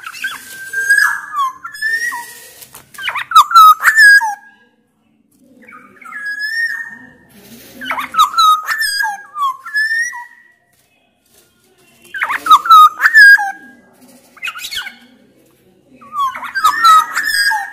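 Black-naped oriole calling: short phrases of fluty, gliding whistles mixed with rougher notes, repeated about every two seconds with short pauses between them.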